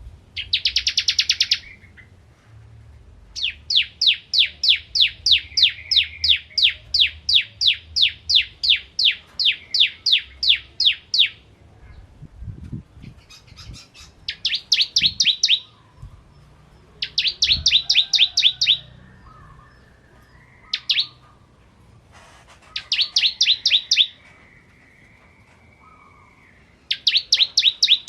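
Bar-winged prinia (ciblek kristal) singing: a long run of rapid, evenly repeated sharp high notes lasting about eight seconds, then shorter bursts of quicker notes every few seconds.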